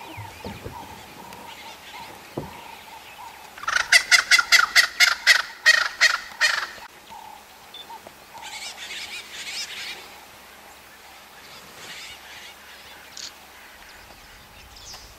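A bird's loud, rapid cackling call: a run of about fourteen harsh notes, four or five a second, lasting about three seconds.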